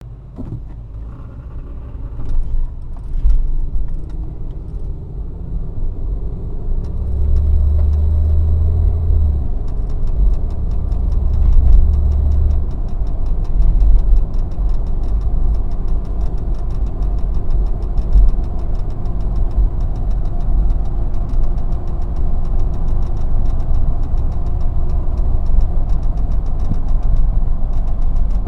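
2002 Mitsubishi Montero Limited with its engine running and an odd low buzzing from the brake system in two stretches, a few seconds each, starting about seven seconds in. The owner wonders whether the brake accumulator is the cause.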